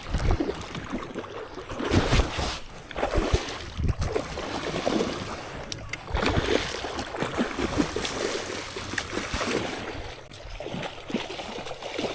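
Irregular splashing of water as a hooked largemouth bass is fought in at the bank, with wind buffeting the microphone.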